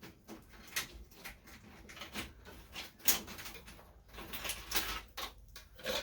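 Hands working a headlight wiring pigtail loose from the headlight housing: irregular clicks and scrapes of parts being pulled and handled.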